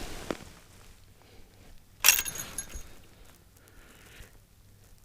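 A sudden clatter of hard objects knocking together about two seconds in, with a short high ringing clink.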